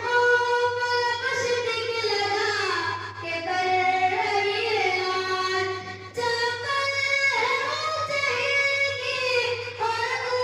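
A child singing solo in long held, ornamented phrases, with short breaks between phrases about three and six seconds in.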